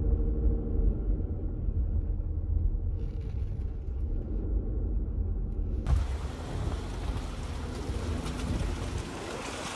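Steady low engine and road rumble heard from inside a moving car. The sound changes abruptly about six seconds in, where a wider hiss begins.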